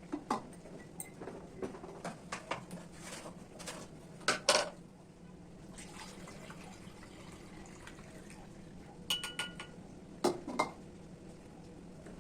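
Kitchen dishes and containers being handled and set down: scattered clatters and knocks, the loudest a pair about four seconds in, and a ringing clink about nine seconds in.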